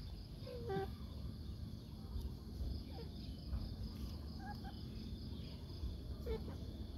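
Faint backyard ambience: insects shrilling steadily, with a few faint short calls from chickens scattered through it over a low background rumble.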